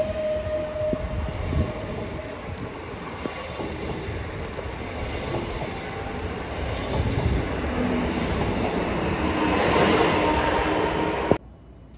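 PKP Intercity electric multiple unit passing close along the platform, its running noise growing louder as the end car nears. A steady high tone fades out over the first couple of seconds. The sound cuts off abruptly near the end.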